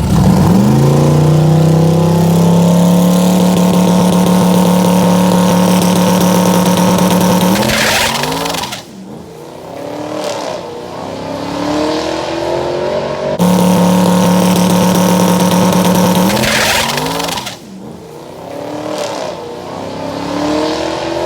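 Drag-racing motorcycle engine held at steady high revs for several seconds with the rear tire spinning in a burnout, then a quick change in pitch as it pulls away and the level falls off. The same sequence happens again about two-thirds of the way through.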